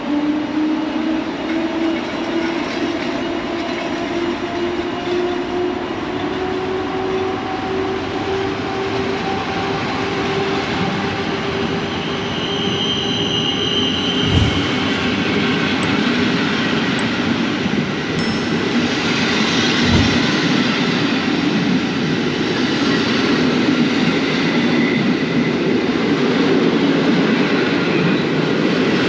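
Electric passenger train pulling out: a motor whine rising slowly in pitch as it gathers speed, under a growing rumble of wheels on the rails. Two dull knocks come about halfway through and a few seconds later.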